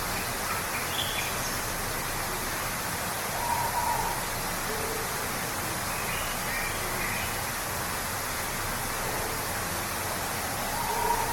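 Steady rush of a waterfall, with a few short bird calls over it, two slightly louder ones about three and a half seconds in and near the end.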